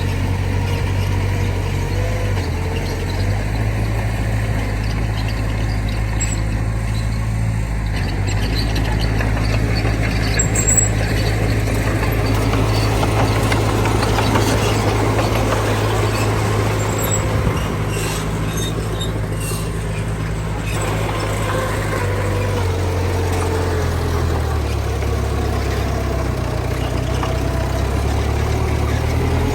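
Heavy diesel earthmoving machinery running steadily, its engine note shifting now and then, with faint high squeals and a sharp clank about eleven seconds in.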